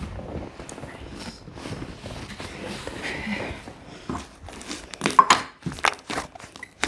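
Slime being squeezed and pressed by hand, giving scattered small clicks and pops that grow sharper and louder about five seconds in.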